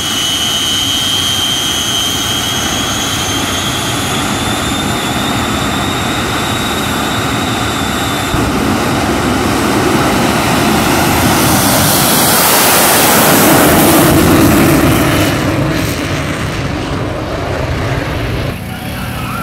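Shockwave jet truck's three Pratt & Whitney J34 turbojet engines running: a loud jet roar with high whistling turbine whines that fade out over the first several seconds. The roar then swells to its loudest a little past halfway and drops away in two steps near the end.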